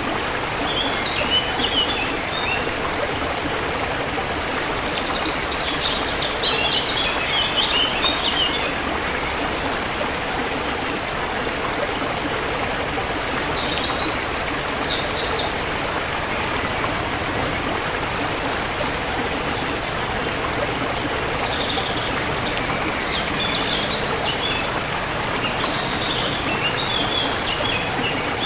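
Forest river water flowing steadily, with songbirds chirping over it in short bursts near the start, around a third of the way in, midway, and again through the last quarter.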